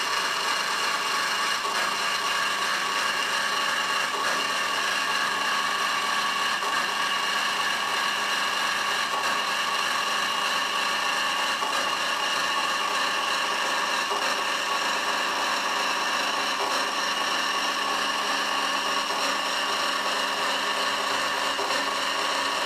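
Bandsaw running steadily as it cuts through a truck exhaust pipe, an even, continuous sawing with a high ringing whine and no break in it.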